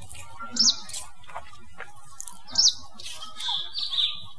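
Small birds chirping: a few short, high chirps, the loudest about half a second and two and a half seconds in, with a longer call near the end.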